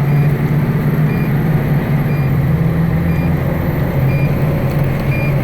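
2010 Pierce Arrow XT fire engine's diesel engine running steadily, heard from aboard the truck, with a short high electronic beep repeating about once a second.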